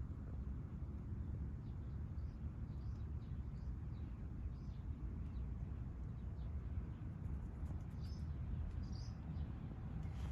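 Outdoor ambience: small birds chirping now and then over a steady low rumble, with the chirps coming thicker near the end.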